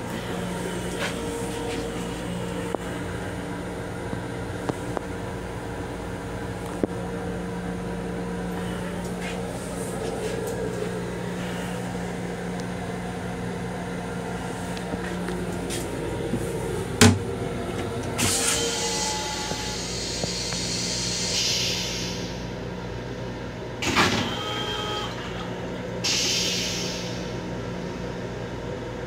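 Steady hum of an M7 electric railcar heard inside its small restroom, with a few light clicks. Partway through comes a sharp knock, then bursts of hissing and a second knock.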